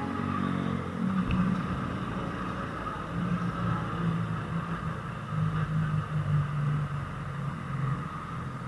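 Motorcycle engine running at low speed, a steady low hum that rises and falls slightly, with a light click about a second in.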